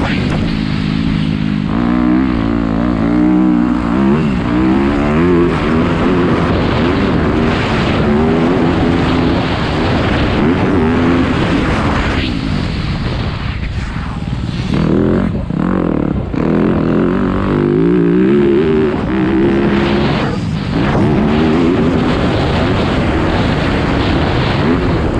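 Dirt bike engine revving up and down as it is ridden around a motocross track, pitch climbing through the gears and dropping off when the throttle is shut, with wind noise on the microphone.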